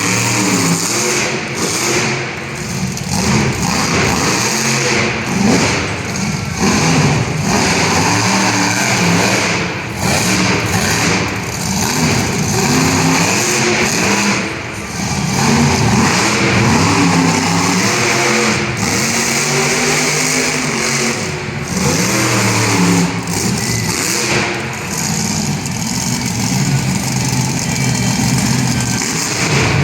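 Monster truck engine revving hard and repeatedly, its pitch climbing and dropping again and again, with a few heavy thuds along the way.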